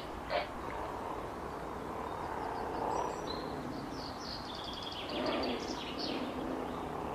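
Steady outdoor background noise with birds chirping. From about three seconds in come quick, high trilling runs of chirps, after a brief sharp sound just after the start.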